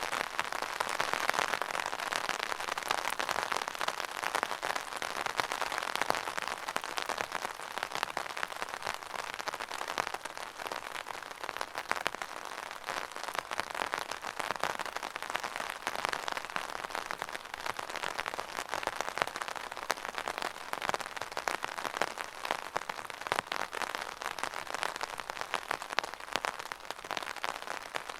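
Steady rain falling and pattering on a surface, a dense crackle of many small drops that swells gently and eases.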